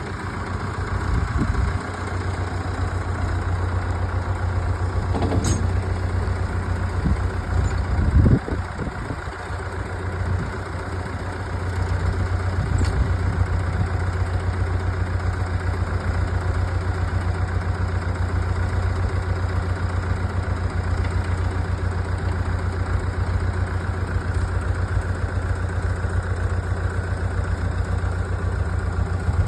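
Fordson Power Major tractor engine running steadily, with a brief louder burst about eight seconds in.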